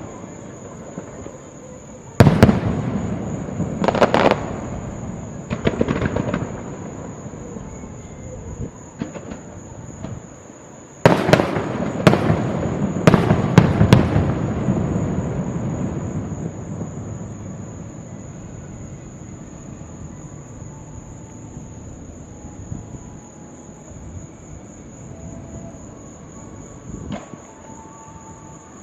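Fireworks shells bursting in a series of sharp booms, each followed by a rolling echo. The loudest come about two seconds in and in a quick cluster around eleven to fourteen seconds. After that the rumble fades and only a few faint pops remain.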